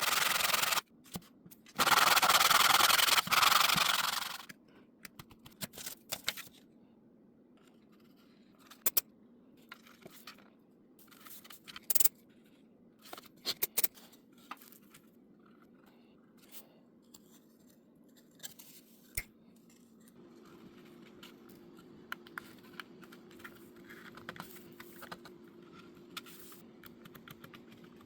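Sandpaper rubbing on a model airplane part in two spells of steady strokes in the first four or so seconds, then quieter handling with scattered light clicks and taps. A faint steady hum comes in for the last third.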